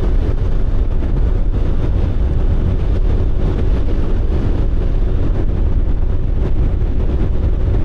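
Motorcycle running steadily at road speed, with a constant low rush of wind over the microphone.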